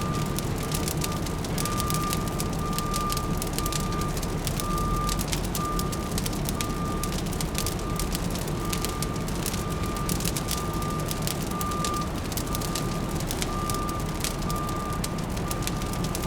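Fire crackling over a steady low city rumble, with a high electronic beep repeating about once a second, like a vehicle's reversing alarm.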